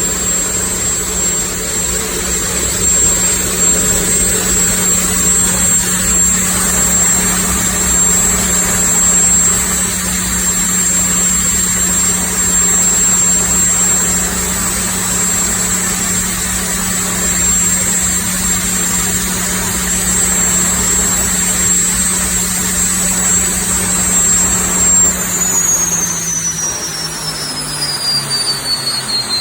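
Lycoming T53 gas turbine running steadily with a high whine and a deep hum. In the last few seconds the whine and hum both slide down in pitch as the turbine spools down.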